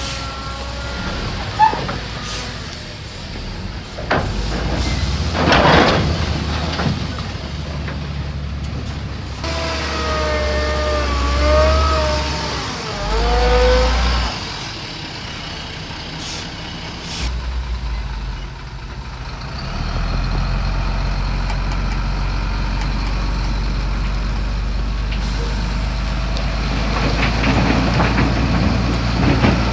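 Heavy diesel earthmoving machinery, dump trucks and a Shantui DH17C3 bulldozer, running with a steady low rumble. A short hiss comes about six seconds in, a wavering whine rises and falls from about ten to fourteen seconds in, and the engine settles to an even drone from about twenty seconds on.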